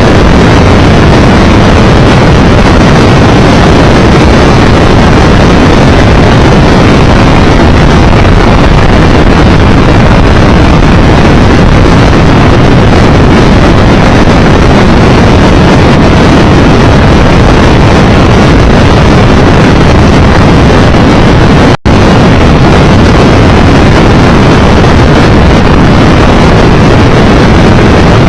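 Loud, steady wind rush over the microphone of a Triumph Tiger Explorer 1200 motorcycle riding at road speed, with engine and road noise blended underneath. The sound cuts out for an instant about three-quarters of the way through.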